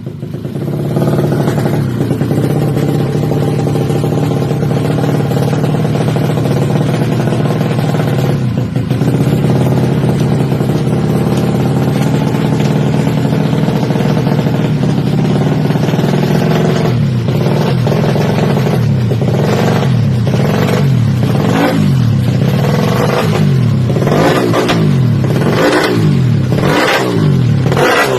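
A Yamaha Jupiter Z drag bike's four-stroke single-cylinder engine through its aftermarket exhaust. It runs at a steady speed for about the first half, then is blipped over and over, the pitch rising and falling about once a second.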